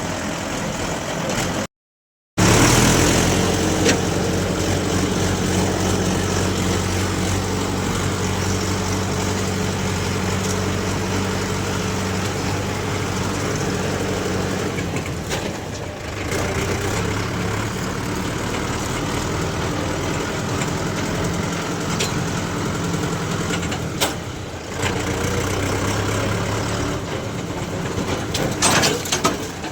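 Diesel engines of a backhoe loader and tractors running steadily. The sound breaks off briefly about two seconds in, and there are a few sharp knocks near the end.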